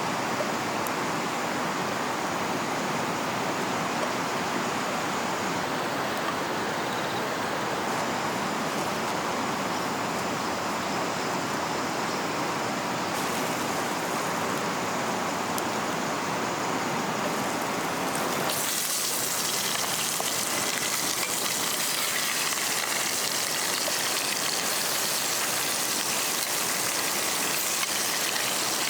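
Steady rush of flowing river water. About two-thirds of the way through, it changes abruptly to a brighter, hissier sound.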